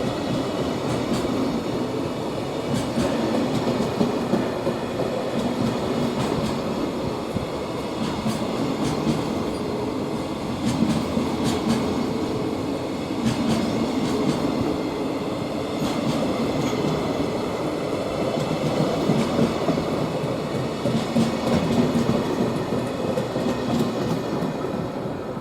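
Freight train rolling past: a steady rumble of the wagons' wheels on the rails, with irregular sharp clicks as the wheels cross rail joints.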